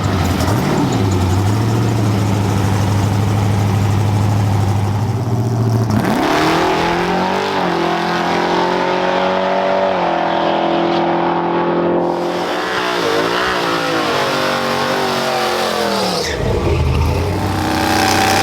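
A drag-racing truck's engine: a low steady drone for about six seconds, then a sharp rise in revs as it launches down the track. It holds high revs, wavers around the middle and drops away near the end as the driver lifts off.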